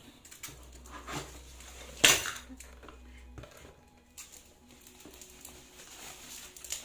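Metal parts of an ampia-style noodle machine being handled and set down, clinking and knocking, with one loud clank about two seconds in.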